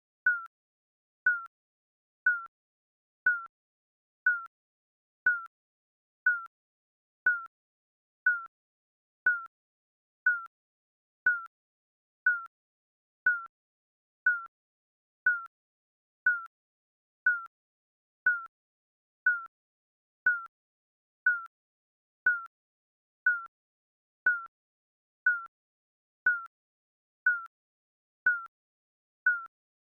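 Digital countdown timer beeping: a short, mid-pitched electronic beep once every second, with silence between beeps.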